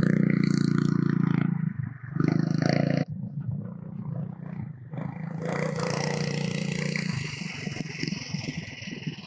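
Minibike engine revving hard as the bike pulls away, loud for the first three seconds, then dropping off suddenly and running quieter and rougher as it moves off. It swells again for a moment around the middle before fading near the end.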